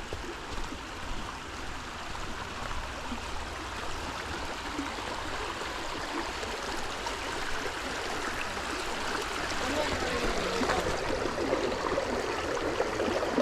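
Creek water running over rocks, a steady rushing that grows louder over the last few seconds.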